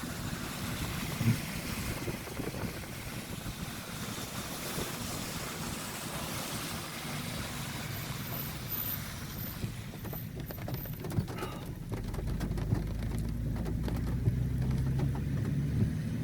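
Vehicle driving on a wet street in the rain, with a steady hiss of tyres on wet road and rain. About ten seconds in the hiss dies down, leaving a steady low engine hum, as when the vehicle slows.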